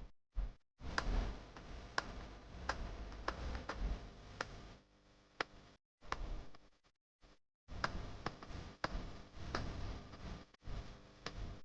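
Irregular sharp clicks and rustling handling noise, coming in two stretches with a short break near the middle.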